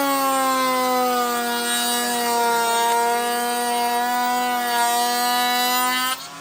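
Electric power tool motor running under load as it cuts wood, its pitch slowly sagging and then steadying, before it cuts off sharply about six seconds in.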